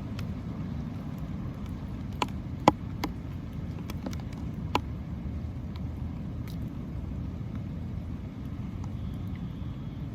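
Steady low outdoor rumble, with four sharp taps between about two and five seconds in.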